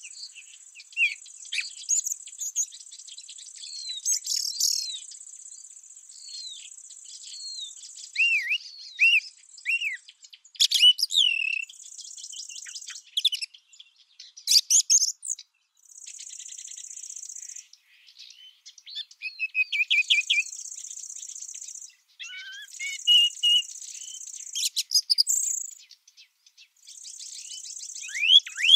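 Several small birds chirping and singing in quick, varied phrases, over a high, dry insect trill that runs in bouts of a couple of seconds and then stops, as grasshoppers or bush-crickets do.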